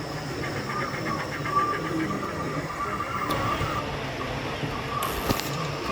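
Model railway locomotive running on an exhibition layout over a steady mixed background, with a short burst of hiss about five seconds in.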